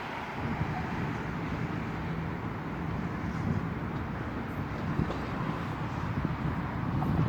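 Storm wind gusting and buffeting the microphone: a steady low rumble with a rushing hiss.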